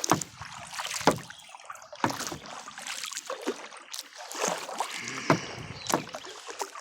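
Kayak paddling: the paddle blades dip into and splash through the water, with sharp clicks and splashes about once a second.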